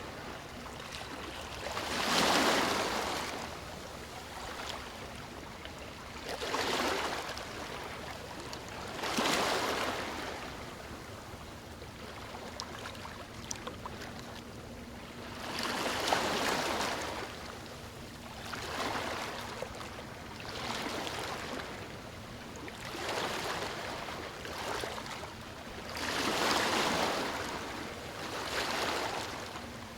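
Sea waves breaking and washing on a beach: about nine separate swells of surf over a steady wash, each rush building and fading over a second or two, the strongest about two seconds in and near the end.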